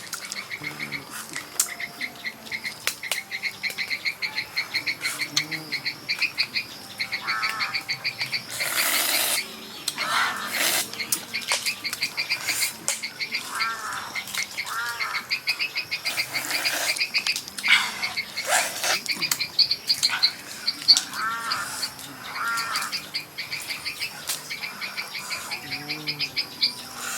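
Frogs calling in a chorus of rapid, pulsing trills, with a few short chirps, scattered clicks and knocks, and a brief hiss about nine seconds in.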